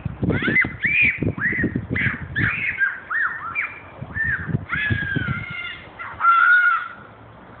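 Birds calling over and over, a quick run of short harsh cries that rise and fall in pitch, with a low rumble underneath. The calls thin out and the sound drops in the last half-second or so.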